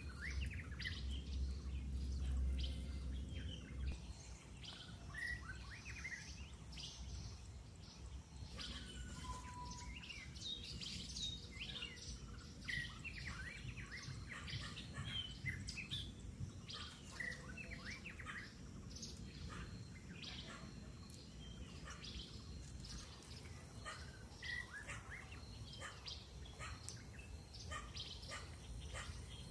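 Wild birds chirping and calling, many short calls throughout, over a steady outdoor background. A low rumble sounds under them for the first few seconds.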